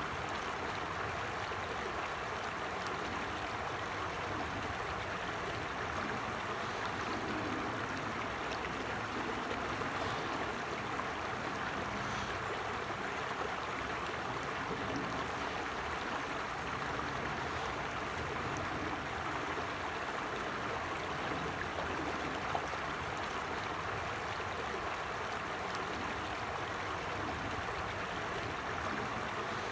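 A forest stream flowing and babbling in a steady, even rush of water.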